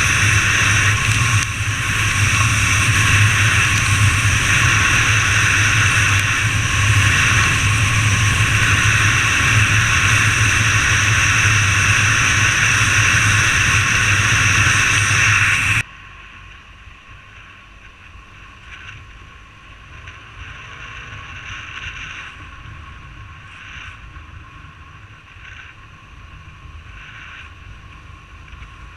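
Steady road noise from a motorbike on the move, wind and engine together, loud and unchanging. About halfway through it cuts off abruptly to a much quieter, faint outdoor background.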